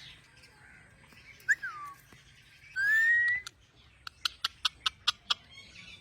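Parrot calling: a short falling call, then a louder rising whistle about three seconds in, followed by a run of sharp clicks at about four a second.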